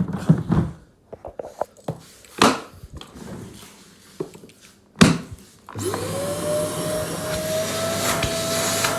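Clicks and knocks of the plastic vacuum cleaner being handled, then the Kärcher vacuum cleaner is switched on just under six seconds in: its motor spins up with a rising whine and settles into steady running.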